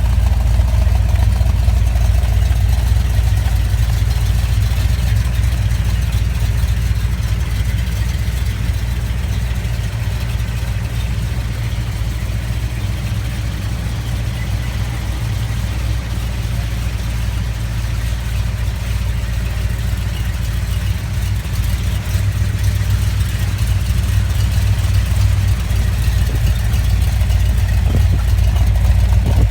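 1972 Chevrolet Corvette's LS5 454 big-block V8 idling steadily.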